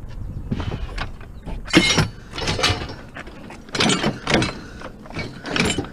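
Heavy scrap metal being loaded into a van: a run of four or five irregular scrapes and clunks of metal on metal and on the van floor.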